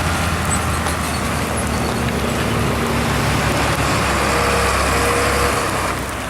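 Heavy truck engine running steadily under a dense rumble of road noise, easing off slightly near the end.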